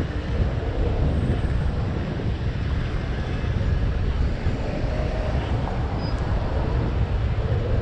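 Steady rush of wind and road noise from a moving e-bike ride, heaviest in the low range, with no single event standing out.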